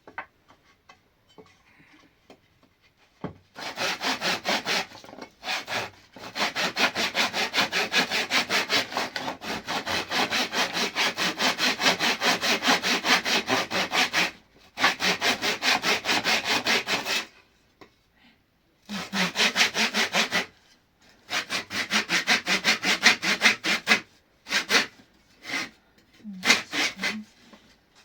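Hand saw sawing with fast, regular back-and-forth strokes, about four or five a second, in several long runs broken by short pauses.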